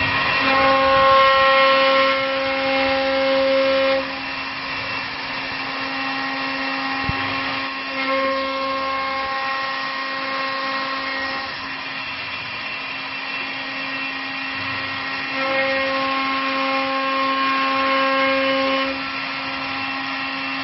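CNC wood lathe with a rotary carving spindle running, a steady machine whine throughout. Three times it grows louder for a few seconds with a higher whine of several tones.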